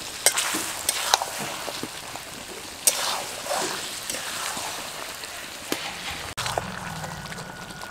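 Mutton and masala cooking in a metal kadai with a steady sizzle, broken by a few sharp knocks and scrapes of a spatula against the pan. About six seconds in the sound cuts abruptly to a steady low hum with a faint thin whine above it.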